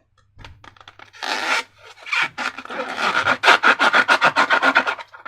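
Rubber balloon being rubbed and worked by hand, giving quick rubbing and squeaking strokes. They start sparse and grow into a fast, dense run over the second half.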